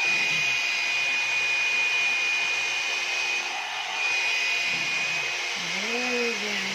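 One-step hot-air brush (hair dryer and styler) running steadily, its fan blowing with a constant high whine.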